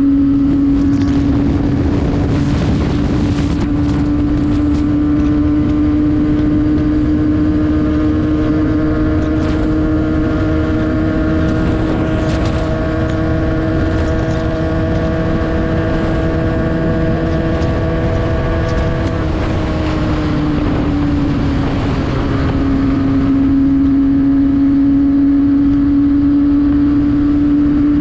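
Isuzu D-Max pickup under way, with a steady engine drone over road and wind rumble. The drone creeps up slowly in pitch, drops about two-thirds of the way through, then climbs back as the truck changes speed.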